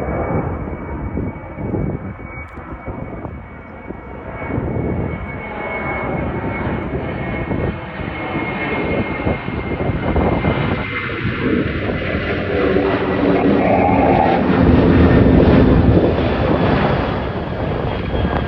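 Airbus A330-202 jet airliner's twin turbofan engines at takeoff power during departure. The roar builds steadily and is loudest about fifteen seconds in, with a thin high whine that fades out about halfway through.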